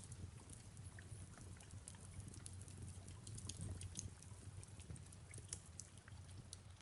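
Fireplace crackling faintly: irregular sharp pops and snaps over a steady low rumble.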